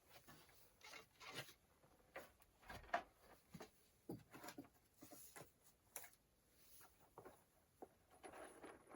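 Near silence with faint, irregular small taps and rustles scattered throughout, a dozen or so soft clicks.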